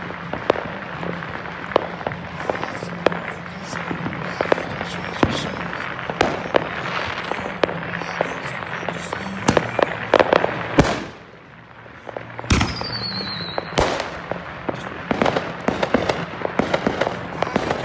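Consumer aerial fireworks going off: a steady crackle of pops and small reports. Several louder bangs come a little past the middle, and a brief falling whistle follows one of the loudest.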